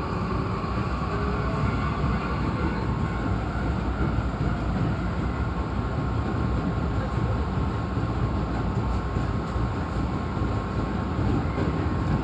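Hankyu 8300-series electric train running steadily between stations, heard from inside the car: an even rumble of wheels and running gear with a faint steady high tone.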